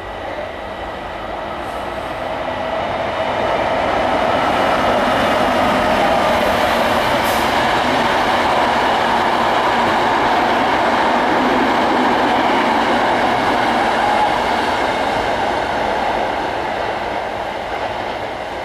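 Electric passenger train, hauled by an E402B locomotive, running past on the station tracks: a steady wheel-on-rail rumble that builds over the first few seconds, holds for about ten seconds and fades near the end.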